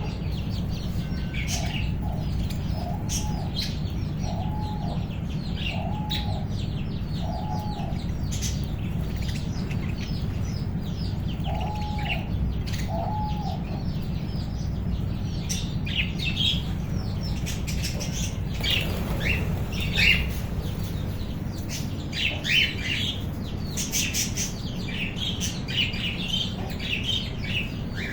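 A colony of budgies and cockatiels chattering and chirping, growing busier and louder in the second half, over a steady low hum. A short, low, arching call is repeated several times in the first half.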